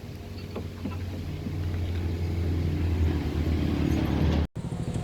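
Low, steady engine hum of a vehicle, growing louder over about four seconds, then cut off abruptly near the end.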